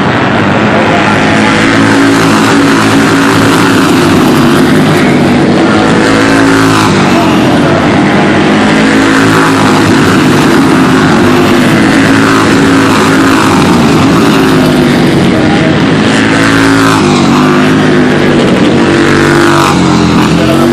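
Superbike racing motorcycles at full throttle, several engines overlapping, their pitch climbing through each gear and dropping at the shifts. Loud and steady throughout.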